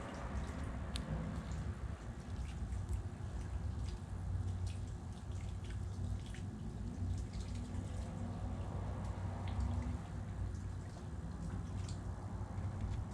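Birds pecking and cracking sunflower seeds: scattered, irregular small clicks and taps over a steady low rumble.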